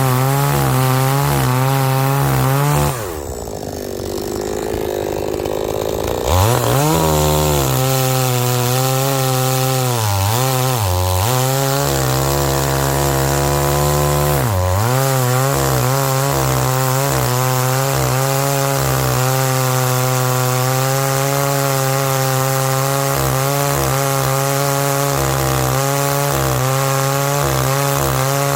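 Two-stroke engine chainsaw running at high throttle, its pitch sagging several times as the chain bites into firewood. About 3 s in it drops to a low idle for roughly three seconds, then revs back up.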